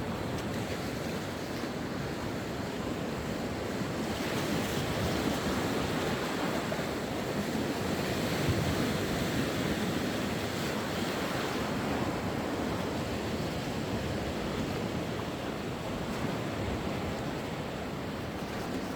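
Sea waves breaking and washing on the shore, a continuous surf hiss that swells and eases slowly, with some wind on the microphone.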